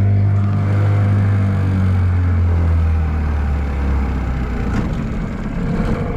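Boat's outboard motor running steadily, its note dropping a little about halfway through.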